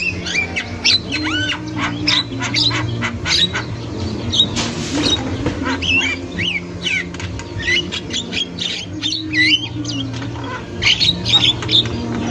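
Javan myna calling rapidly: a dense run of short whistles, squawks and chattering notes, with one brief harsh rasp near the middle, over a low steady hum.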